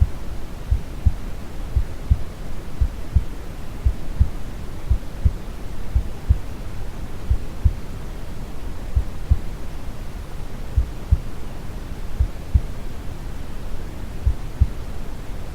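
Brown noise, a steady deep rushing hiss, with a calm, recorded heartbeat thumping low and regular, about once a second.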